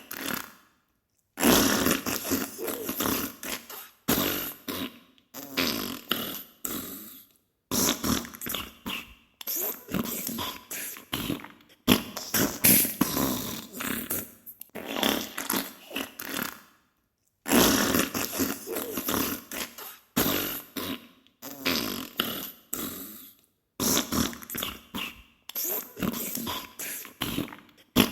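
Diarrhea sound effect: a run of wet, spluttering fart-like bursts, one every second or two, with brief silent gaps between them.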